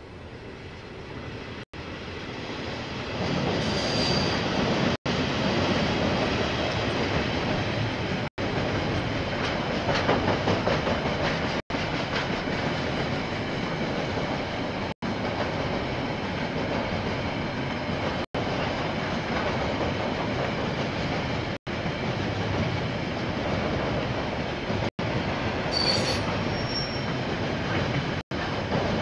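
KiwiRail train rolling past, its rumble building over the first few seconds and then staying loud, with two brief high wheel squeals, one early and one near the end. The sound drops out for an instant about every three seconds.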